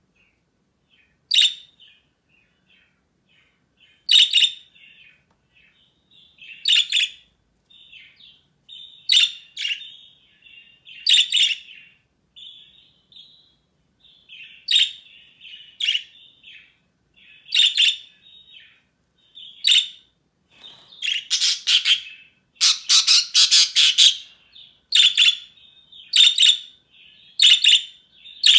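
Pet budgerigars chirping back and forth: short, sharp, high chirps every second or two, with a burst of rapid chattering about three quarters of the way through.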